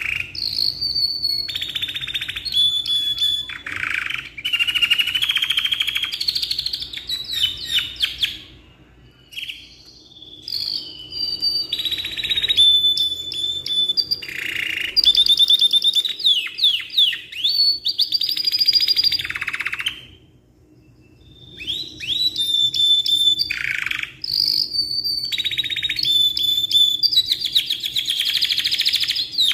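Canary singing long, varied phrases of rapid trills and rolling notes, with two short breaks about a third and two-thirds of the way through.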